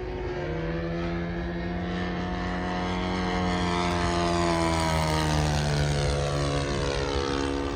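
Radio-controlled model P-51 Mustang's propeller engine running through a half loop and pass. It grows louder to its loudest about five seconds in, then fades as its pitch drops.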